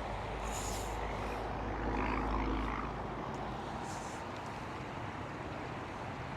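Steady low urban traffic hum. A passing engine rumble swells about two seconds in and fades by about three seconds.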